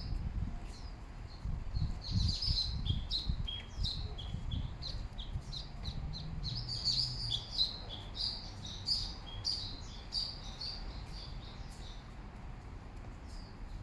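Birds chirping, a busy run of many short, high calls that starts about two seconds in and thins out near the end, over a low rumble.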